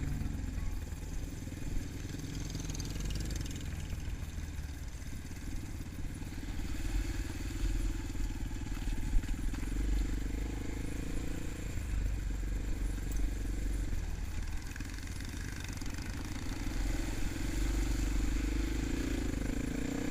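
Motorcycle engine running under way, a steady low rumble that swells and eases a few times.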